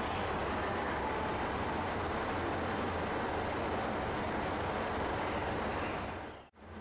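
Steady running noise of a rail vehicle at a station, with a low hum beneath it; it cuts off abruptly near the end.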